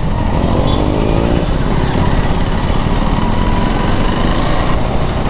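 KTM 390 Duke's single-cylinder engine and road noise while riding in traffic, with heavy low wind rumble; the engine note rises in pitch in the first couple of seconds as the bike accelerates.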